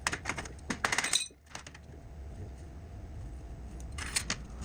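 Metal parts clinking and rattling as they are handled, a burst of clatter in the first second and another short one near the end, over a low steady hum.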